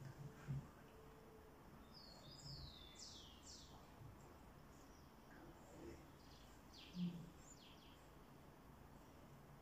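Near silence with faint bird chirps in the background: a few quick downward-sweeping chirps about two to four seconds in and again around seven seconds. Two soft low thumps, just after the start and about seven seconds in.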